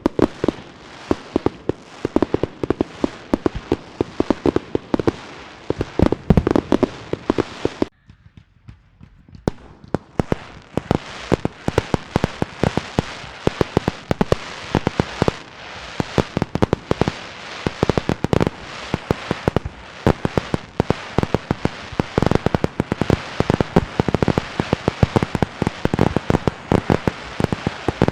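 Fireworks and firecrackers going off in a dense, irregular barrage of sharp cracks and pops, with a short lull about eight seconds in before the rapid crackling resumes.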